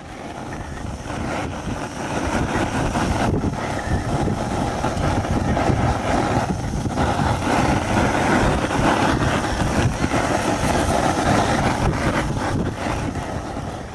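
Steady rush of flowing water from a mountain stream, with no pitched tones.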